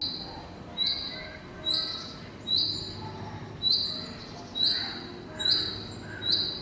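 A bird calling: the same short, high, slightly rising whistled note repeated seven times, a little under a second apart.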